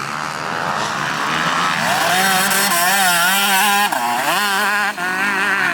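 Motocross bike's two-stroke engine revving hard, its pitch climbing and dropping again and again through the gears, with a sharp drop off the throttle about four seconds in.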